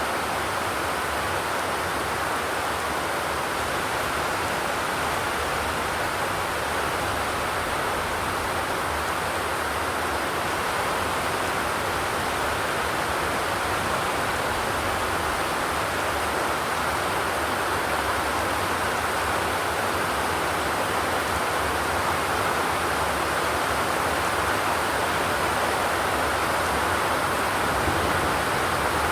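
Steady rain on a zinc sheet roof: a dense, even hiss of drops with no thunder.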